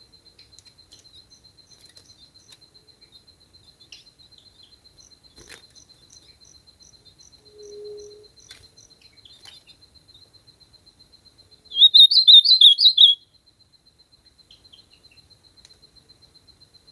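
Ultramarine grosbeak (azulão) singing one short, rapid, loud phrase about twelve seconds in, over a faint steady high pulsing trill.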